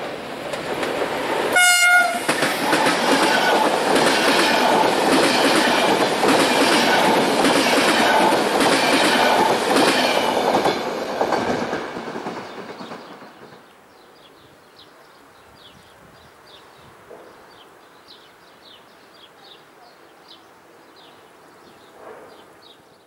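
A Hellenic Train HellasSprinter (Siemens EuroSprinter) electric locomotive hauling an InterCity passenger train gives one short horn blast about two seconds in. It then runs past close by, loud, with a steady rushing noise and a regular clatter of wheels over the rails about once a second. The sound fades away around thirteen seconds in.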